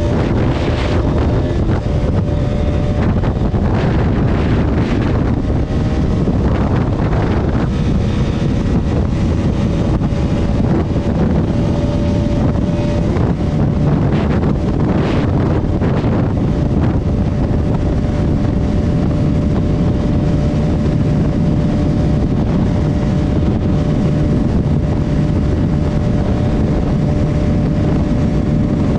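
Bajaj Pulsar RS200's single-cylinder engine running steadily while the bike is ridden at speed, with heavy wind rush on the microphone.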